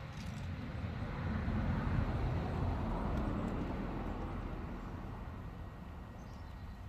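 A vehicle passing by: its road noise swells to a peak about two seconds in, then slowly fades away.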